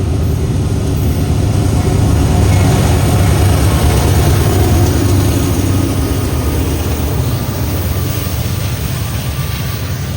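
CSX freight train passing, its diesel locomotives rumbling low and heavy; loudest a few seconds in, then easing off slowly.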